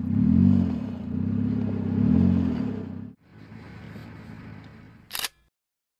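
Automatic car's engine revving up and back down twice, then running more quietly after a brief break. A short sharp sound comes about five seconds in, and then the sound cuts off.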